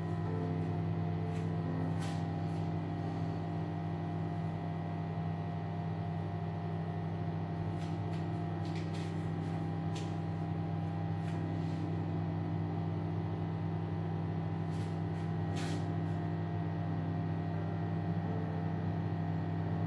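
Steady electrical or mechanical hum of a running machine, with a few faint light clicks and taps over it.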